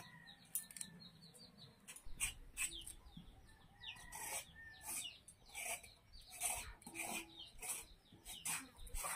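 Birds chirping, a string of short high calls repeating every half second or so, some of them falling in pitch.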